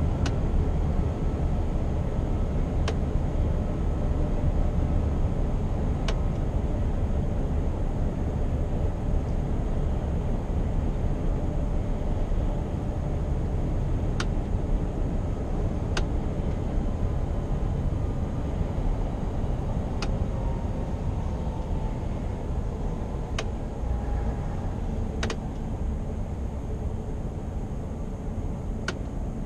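Scania R520's V8 diesel engine running steadily under way, with road and tyre rumble. The engine note shifts slightly in pitch about two-thirds of the way through, and a few faint sharp clicks fall at irregular times.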